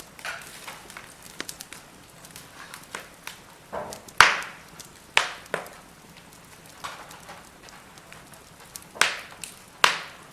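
Firewood burning in a fire pit, crackling with irregular sharp pops over a faint steady hiss; the loudest pop comes about four seconds in, with a few more strong ones near the end.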